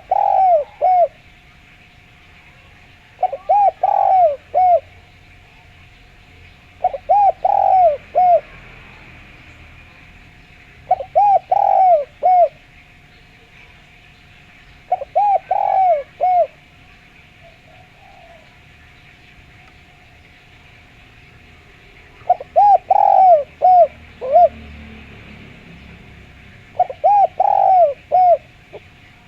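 Spotted dove (derkuku) calling, a clear, loud cooing phrase of several short notes repeated about every four seconds, seven phrases in all with one longer pause near the middle. A faint steady hiss runs underneath.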